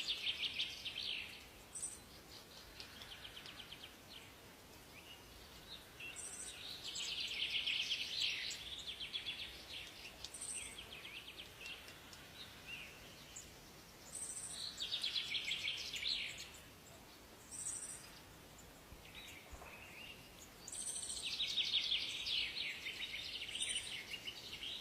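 Forest birdsong: a bird repeats a fast trilled song about every seven seconds, each phrase lasting two to three seconds, with short high chirps between phrases over a faint steady hiss.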